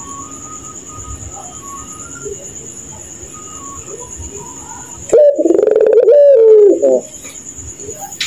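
A puter pelung dove gives one loud, wavering, drawn-out call of about two seconds, starting about five seconds in, over steady cricket chirping.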